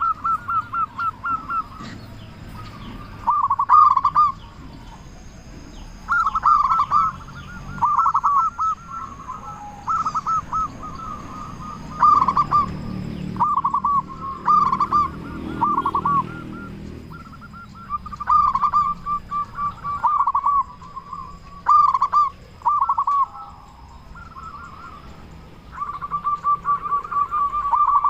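Zebra dove (perkutut) singing its cooing song: phrase after phrase of quick, stuttering coos, each phrase about a second long, repeated every second or two with short pauses. The song is loud and clear.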